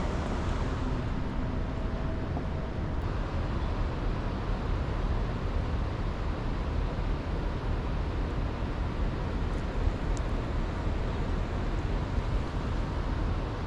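Steady outdoor background noise: an even, low rushing with no distinct events.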